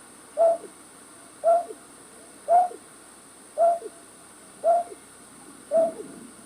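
A night bird's call, a short hooting note with a lower falling tail, repeated evenly about once a second, six times, as a lure call for trapping night birds.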